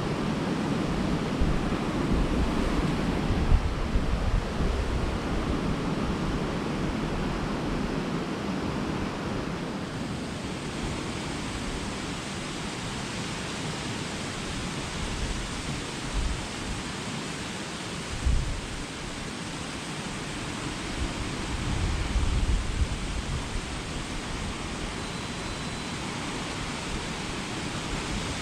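Steady rushing of a waterfall, a continuous even roar of falling water, with low buffets of wind on the microphone now and then.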